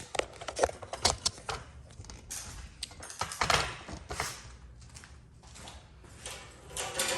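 Handling clatter: a run of irregular clicks and small knocks as equipment is moved and set in place. A steady mechanical whirr starts right at the end.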